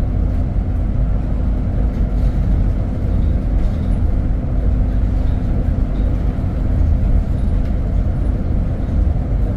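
Steady low rumble of a vehicle driving along, engine and road noise heard from inside the cabin, with a faint steady hum underneath.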